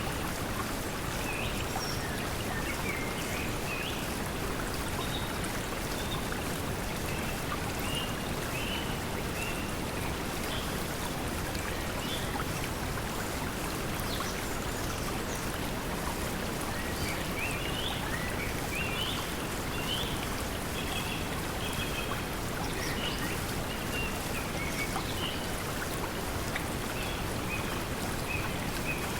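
Steady pink noise blended with flowing water, an even hiss. Small birds chirp over it in two spells, one in the first third and one through the second half.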